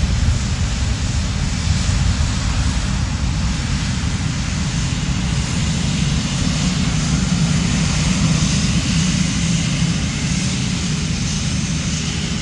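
Airbus A350's Rolls-Royce Trent XWB turbofan engines running at taxi power: a steady rumble with a broad jet hiss that swells a little about two-thirds of the way through.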